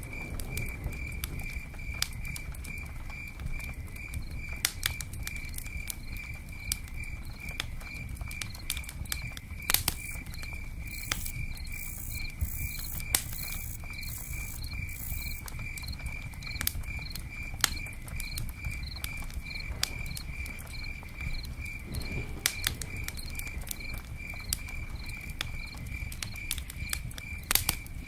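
Rain pattering on a covered tent with scattered crackles from a campfire, over a steady high-pitched chirp that repeats evenly about twice a second.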